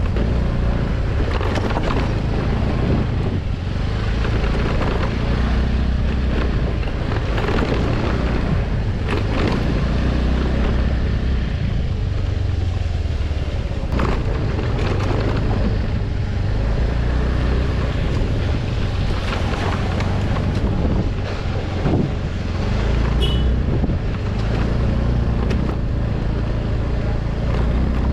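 Vehicle engine running steadily with a deep rumble, under heavy wind noise on the microphone, with scattered knocks and rattles.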